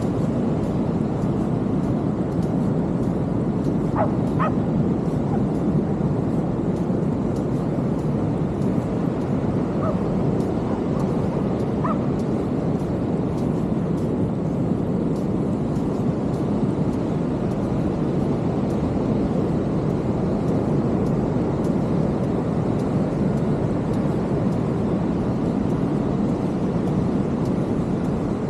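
Steady rush of heavy ocean surf breaking on the beach, with a few faint short high calls around four seconds in and again around ten to twelve seconds in.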